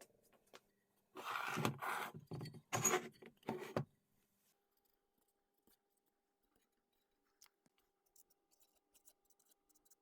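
About five short, harsh scraping strokes of a tool on a hard surface, one after another, followed by a few faint clicks.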